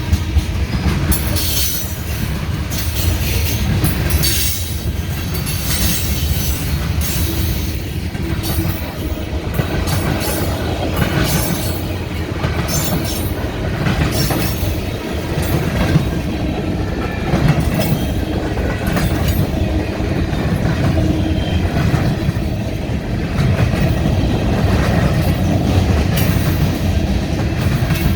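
Freight train rolling past, its wheels clacking over the rail joints in an irregular string of clicks over a steady rumble.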